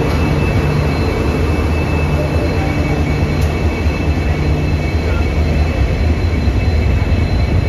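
Passenger express train pulling out, heard from the open door of a moving coach: a steady low rumble of wheels and bogies on the rails, with a faint thin high squeal from the wheels on the curving track.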